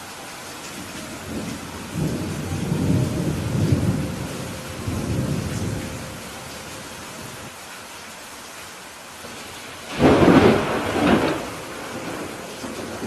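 Steady rain with thunder: a low rolling rumble a couple of seconds in, then a louder, sharper thunderclap about ten seconds in.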